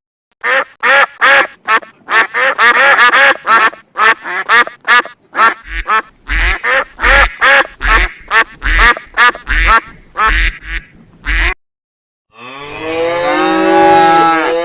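A duck quacking over and over in a rapid run of short calls for about eleven seconds. After a brief pause, a cow starts a long moo near the end.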